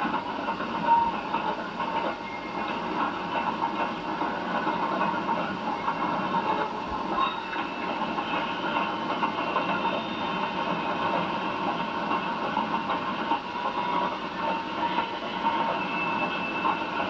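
A train running along the track, heard from on board: a steady, unbroken running noise with faint tones in it.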